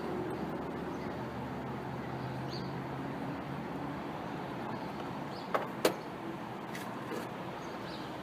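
Two sharp metallic clinks, about a third of a second apart, a little past halfway, over a steady low hum: metal tools or parts striking one another while working on the engine.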